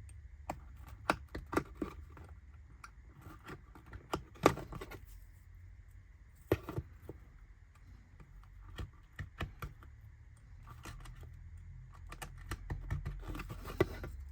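Irregular small clicks and taps of laser-cut wooden kit parts being cut free with a craft knife and handled on a work surface, with a steady low hum underneath.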